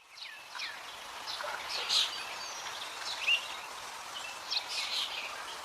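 Several birds chirping and calling, short chirps that slide up or down in pitch and come every half second or so, over a steady background hiss. The sound fades in at the very start.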